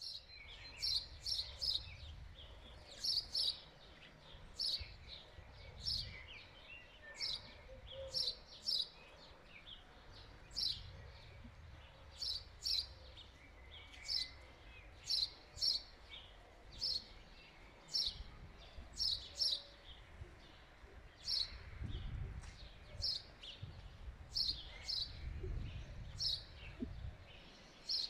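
A small songbird chirping over and over: short, sharp, high notes, often in pairs or threes, one or two groups a second. Beneath it is a low, uneven rumble.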